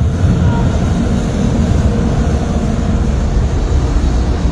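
Steady, loud rumble of automatic car wash equipment heard from inside the car, with spray and machinery noise throughout.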